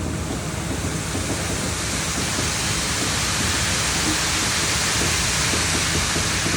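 Heavy machinery engine running steadily on a concrete job, under a broad rushing hiss that swells about two seconds in.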